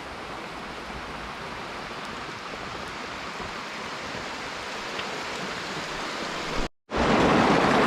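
Steady rain falling. It cuts out briefly near the end, then comes back louder.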